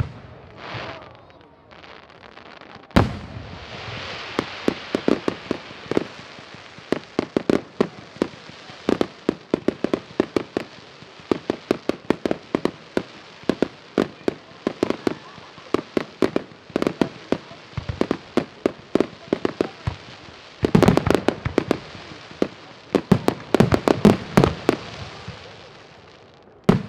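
Fireworks going off: a single loud bang about 3 seconds in, then dense crackling with many sharp cracks over a steady hiss, thickening near the end before it dies down.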